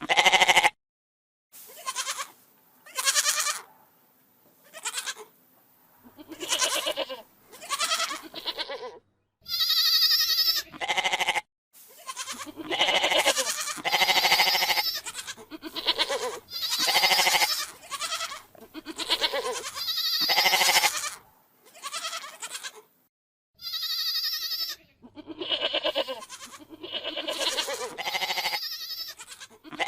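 Goats bleating in a string of separate calls, some short and some drawn out, with a higher-pitched call about ten seconds in.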